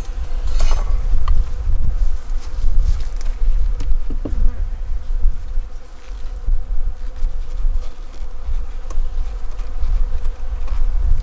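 Honeybees buzzing steadily around an open hive, under a constant low rumble, with a few sharp knocks and scrapes as stuck hive frames are worked loose.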